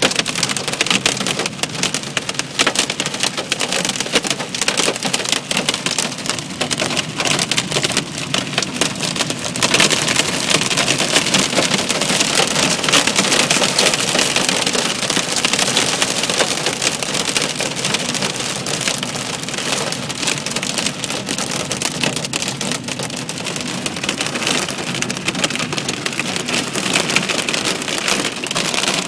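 Hail and heavy rain pelting down in a dense clatter of small impacts, growing heavier about ten seconds in.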